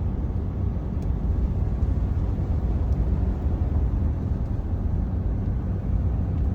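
Steady low rumble of a 2022 Ford F-450 Power Stroke diesel pickup driving through deep snow: engine and tyre drone.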